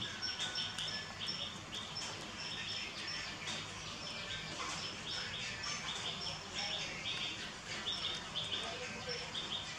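Birds chirping rapidly and repeatedly, short high calls several times a second, over a low steady hum.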